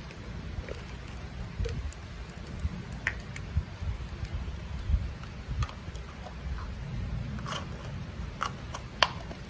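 Heavy rain as a steady low background wash, with scattered small clicks and taps, like plastic toy packaging being handled.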